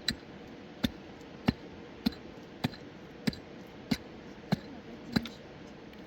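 A series of sharp knocks at a steady pace, about nine blows a little under two a second.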